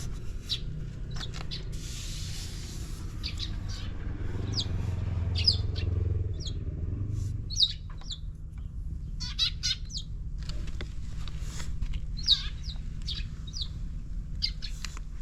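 Small birds chirping in many short, quick calls over a steady low rumble that swells for a few seconds about four seconds in.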